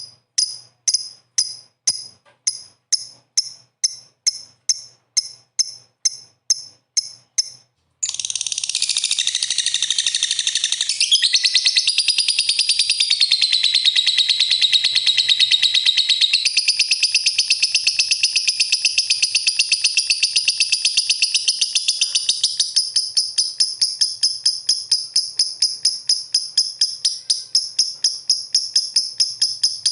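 Lovebird calling: sharp high chirps repeated evenly about two and a half times a second, then, about eight seconds in, a long unbroken high trilling chatter that breaks back into fast repeated chirps near the end.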